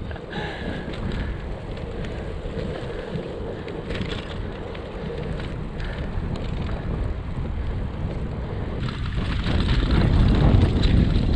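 Wind buffeting an action camera's microphone during a bike ride, a steady rushing rumble that grows louder about nine seconds in.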